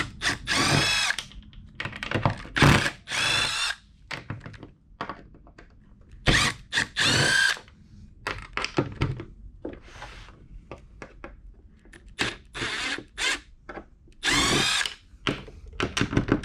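Power drill driving out screws in short bursts of under a second each, about seven times, its motor whine rising and falling in pitch, with light clicks and knocks of handling between bursts. The screws hold the hinges, rod holders and lock on a boat hatch lid being taken off for recarpeting.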